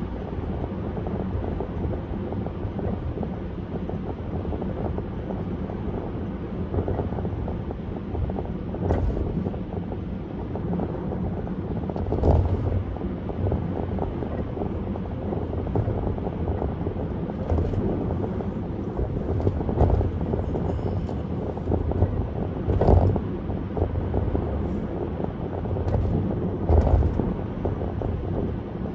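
Car driving at highway speed: steady road and wind noise with a low hum, and a few short thumps scattered through it.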